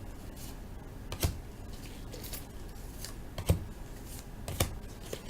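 The last pack of 2013 Bowman Draft baseball cards being opened and its cards handled: light rustling with a few sharp clicks.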